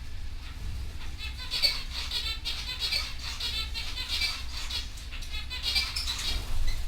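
Canary singing a run of rapid trills. The song starts about a second in and stops shortly before the end, over a steady low hum.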